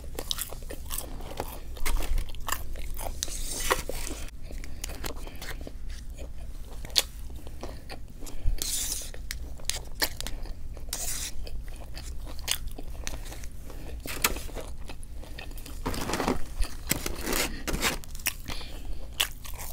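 A person chewing and biting into a Raising Cane's fast-food meal, with wet mouth clicks and crunches coming at an irregular pace.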